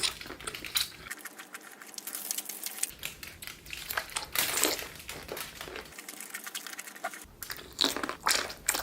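Crunchy snack food being bitten and chewed: a run of irregular crackles and crunches.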